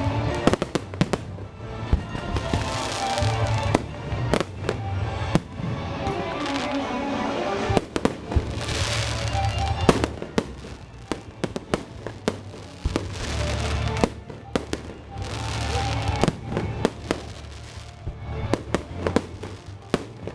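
Fireworks display: many sharp bangs and crackling bursts one after another, with booming low rumble. Music plays under the bangs.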